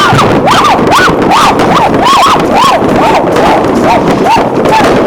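Many whistling fireworks going off at once, each a short whistle that rises and falls in pitch, over a steady crackle of bangs from firecrackers and rockets.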